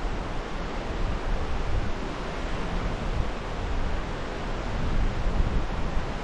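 Wind blowing across the microphone: a steady rushing with an uneven, gusty low rumble.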